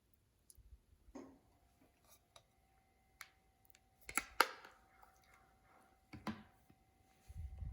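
Slime being handled, giving scattered sticky clicks and pops, the loudest cluster about four seconds in, over a faint steady tone that starts about a second in.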